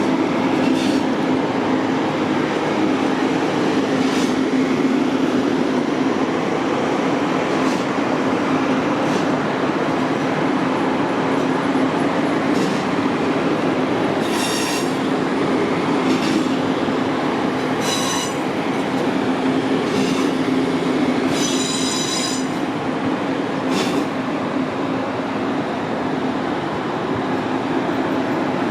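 A train running past at close range: a steady rumble with a held low tone and regular wheel clicks. Several short, high-pitched wheel squeals come around the middle.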